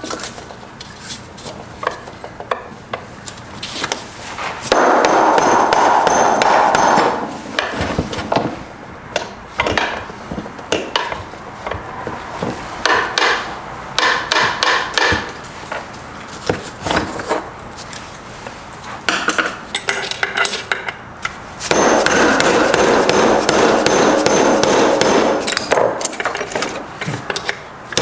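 Hammer blows on the metal parts of a Subaru six-speed transmission, trying to drive out a stuck part, with scattered single strikes and two longer spells of rapid, continuous hammering.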